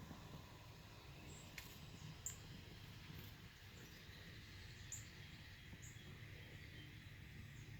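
Faint outdoor ambience with a few short, very high bird chirps, spaced irregularly.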